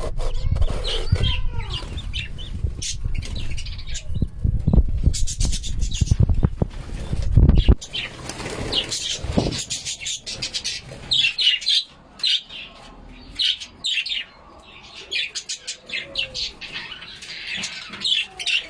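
Penned birds flapping their wings amid a heavy rumble for about the first half. After that come many short, high chirping calls.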